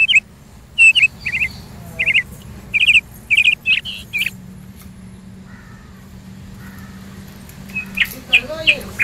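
Small birds chirping: short high calls in quick groups, several through the first half and again near the end.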